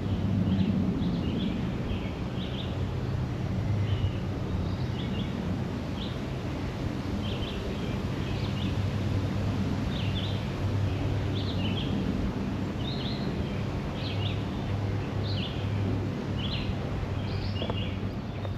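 Small songbirds chirping, short high notes repeated every second or so, over a steady low hum.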